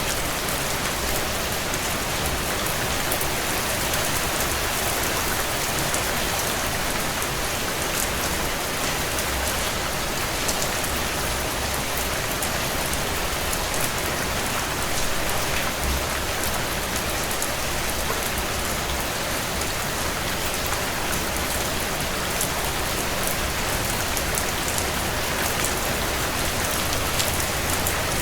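Heavy rain falling steadily on a tin roof: a dense, even hiss with many sharp individual drops ticking throughout.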